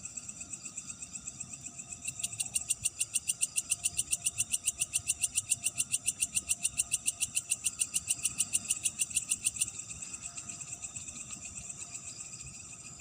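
Night chorus of calling insects, a steady high-pitched trilling throughout. From about two seconds in to near ten seconds, one loud animal call runs over it as a rapid, even pulsing of roughly eight pulses a second, then stops abruptly.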